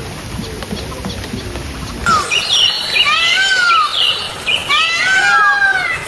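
Birds calling: about two seconds in, a loud run of repeated arching call notes begins, several birds overlapping, after a quieter stretch of mixed background sound.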